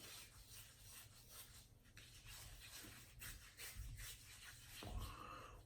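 Faint rubbing of hands massaging a jelly-like pre-shave into the face, in soft, irregular strokes, with a couple of soft low bumps in the second half.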